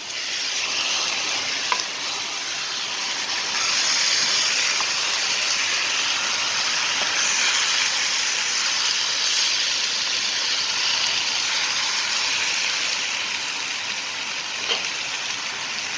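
Quail pieces with ginger, garlic and spices sizzling in hot oil on high heat while being stirred, a steady frying hiss with a couple of faint clicks.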